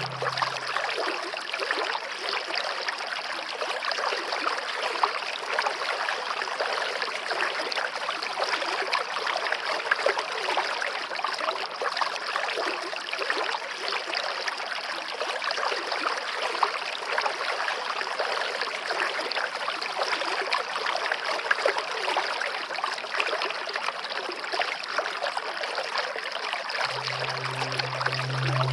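Running water of a stream, a steady even rush. Soft music comes back in near the end.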